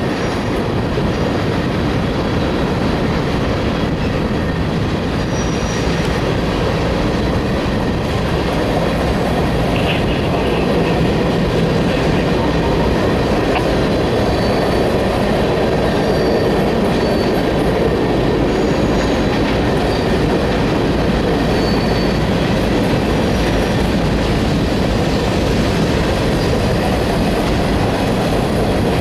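Freight cars of a manifest train rolling past: a steady rumble of steel wheels on rail, with a few brief, high wheel squeals now and then.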